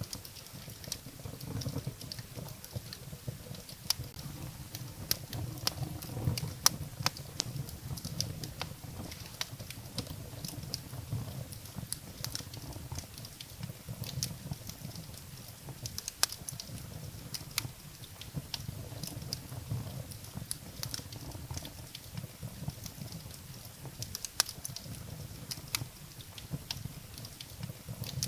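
Wood fire burning in a fireplace: logs crackling and popping at irregular intervals over the low rumbling flutter of the flames.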